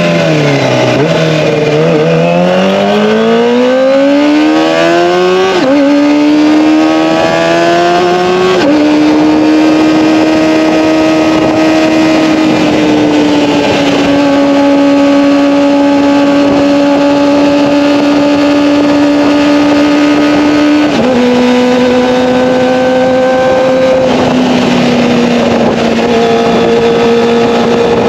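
Kawasaki ZX-25R's 250 cc inline-four running through an Akrapovic Evolution exhaust while riding. The pitch drops, then climbs as the bike revs up. It jumps suddenly about five seconds in, then holds a high, steady note, stepping down twice, the second time about 21 seconds in.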